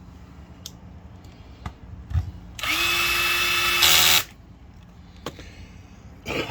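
Cordless drill-driver running for about a second and a half with a steady motor whine, driving in the last screw, a little louder just before it stops. A few light clicks and knocks come before and after.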